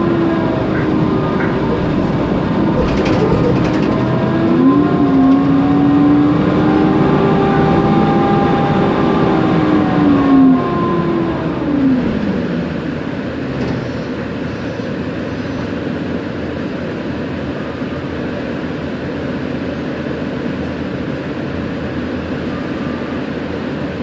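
Mercedes-Benz Conecto NGT city bus under way, heard from inside: the OM 936 G CNG engine and drivetrain whine, the pitch rising and falling over the first dozen seconds as the bus changes speed. After that it settles into a steady, even running drone, with the noisy cooling fan running.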